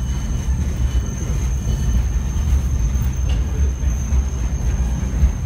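Passenger railroad coach running along the track, a steady low rumble heard from inside the open-windowed car, with a thin steady high whine over it.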